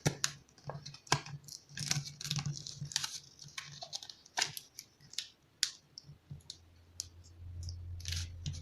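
Origami paper being handled and creased by hand, with irregular crisp crackles and taps. A low hum comes in about six seconds in.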